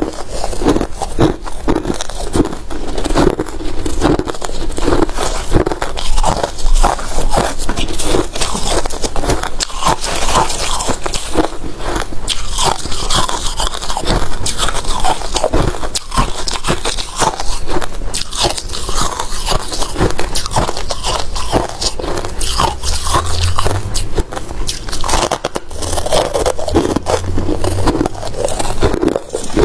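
Close-up crunching and chewing of freezer frost: a continuous run of brittle, crackling bites as the frozen frost is chewed.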